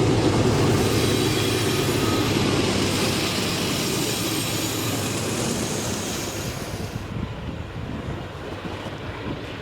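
Freight train wagons rolling past on steel rails, wheel-on-rail noise with some wheel squeal, fading as the train moves away; the high-pitched part drops out about seven seconds in.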